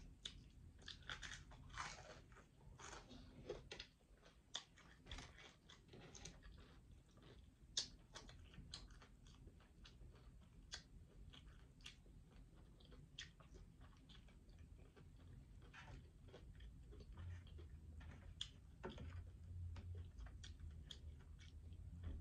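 Faint, close-up chewing of crispy fried chicken wing: scattered crunches and wet mouth clicks, thickest in the first several seconds, with one sharper click around the middle.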